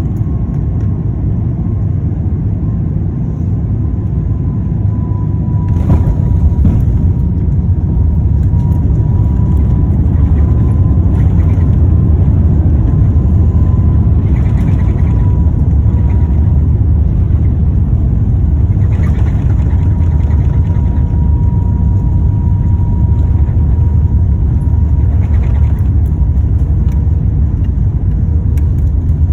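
Airbus A350-900 jet engines and airflow during landing: a loud steady low rumble with a thin steady whine over it. A sharp knock comes about six seconds in, and the noise is louder after it.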